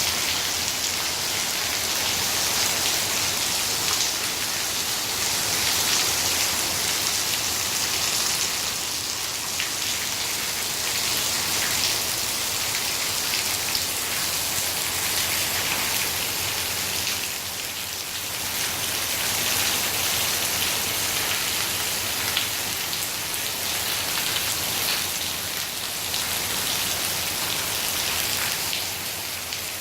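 Steady rain falling, a constant hiss with many small drop hits throughout.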